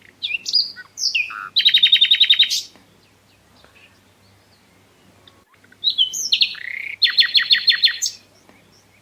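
A songbird singing two phrases, a few seconds apart. Each phrase opens with several quick high whistled slurs and ends in a fast trill of about ten notes a second.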